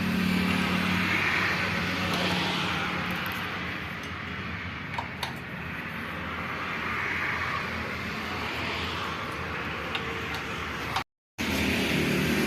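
An engine running steadily at a low, even speed, most likely the tractor's diesel engine.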